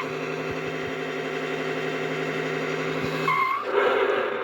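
Road Rippers Street Poundin' Sound toy Escalade EXT playing a recorded car-engine sound effect through its small built-in speaker. The engine note is steady, with a short tire-squeal chirp about three seconds in, and stops soon after.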